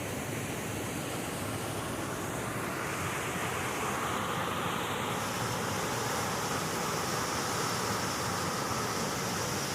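Waterfall rushing: a steady roar of falling water that grows a little louder about four seconds in.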